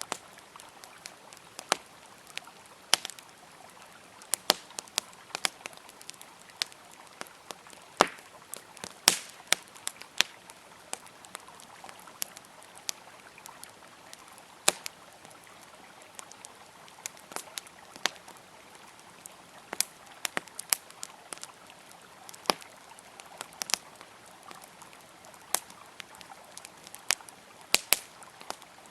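Wood fire crackling with irregular sharp pops and snaps, several a second, over the steady rushing of a river.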